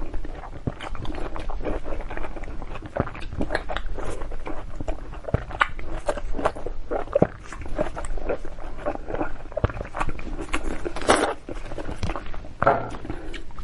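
Biting into and chewing a whole raw zucchini close to a lapel microphone: a dense run of crisp, wet crunches and chews, with a few louder bites about eleven and thirteen seconds in.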